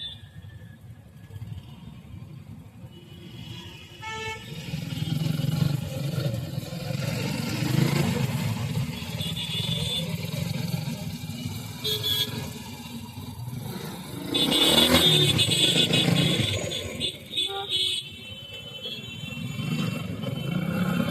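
Road traffic with an engine running steadily and vehicle horns honking a few times, loudest about two thirds of the way through.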